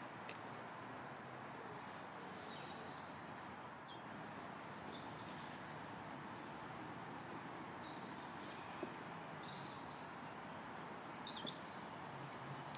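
Scattered short, high bird chirps and calls over a steady background hiss, with one louder, sharply falling call near the end.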